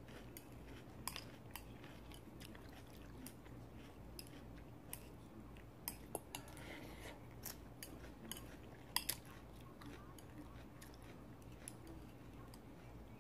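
A person chewing food softly, with scattered small wet mouth clicks and smacks, and a short sip from a bowl about six seconds in.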